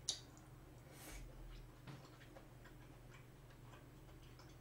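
Faint close-miked chewing of a piece of steamed seafood: soft, wet mouth clicks and ticks, with one sharper click just at the start.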